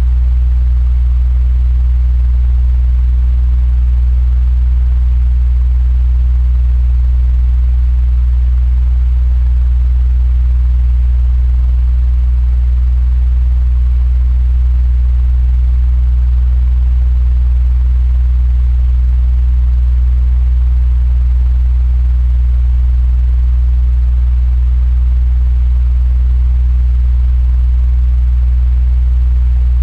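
Electric fan running steadily: a constant low hum with a faint airy hiss above it.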